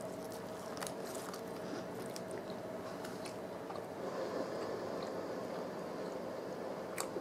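A person chewing crispy fried chicken tenders, with scattered crunches and a sharper click near the end, over a steady low hum.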